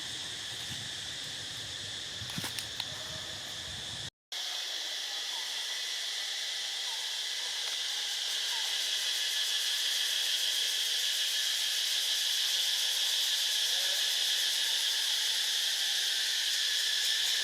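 Steady, high-pitched insect chorus droning without a break. It cuts out for a moment about four seconds in, then comes back, growing slowly louder, with a few soft clicks just before the gap.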